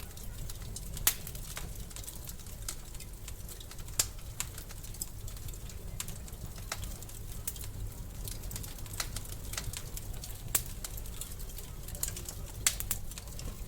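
Wood fire crackling in a fireplace: scattered sharp pops and snaps, a few much louder than the rest, over a low steady rumble of the flames.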